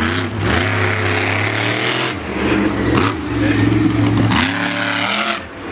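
A loud vehicle engine revving up and falling back several times over a steady low running note.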